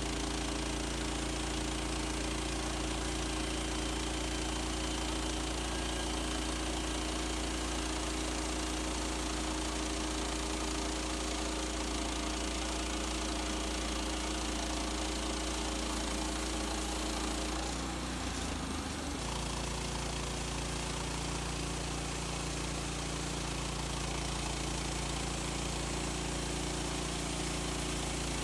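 Gas engine of a Woodland Mills HM130 Max portable bandsaw sawmill running steadily. Its note wavers briefly about eighteen seconds in, then settles again.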